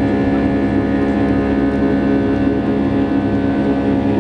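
Boeing 757 jet engines heard from inside the cabin: a loud, steady drone with several held tones over a low rumble.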